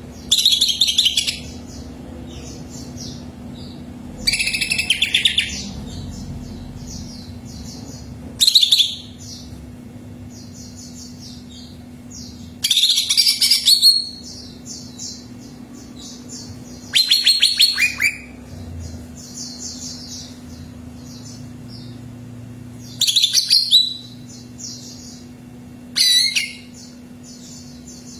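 Cucak ijo (green leafbird) singing: loud song phrases of about a second each, every few seconds, with softer quick chirping between them, over a steady low hum.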